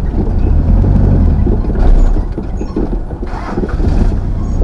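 Truck engine running with a heavy low rumble, and a brief hiss a little past the middle.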